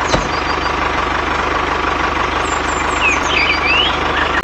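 Homemade mini tractor's motor running steadily with a fast even pulsing and a steady whine. Birds chirp briefly about three seconds in.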